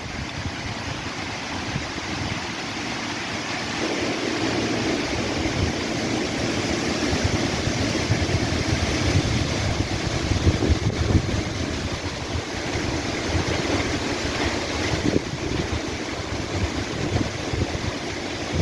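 Wind gusting through trees with a steady rustle of leaves, and the wind buffeting the microphone in uneven low gusts. A steadier low rumble joins about four seconds in.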